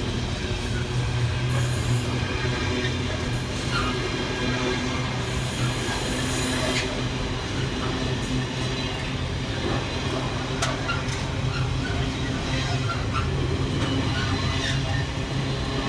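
Loaded container wagons of a Freightliner intermodal freight train rolling past: a steady rumble and hum of wheels on rail, with two short spells of high hiss in the first half.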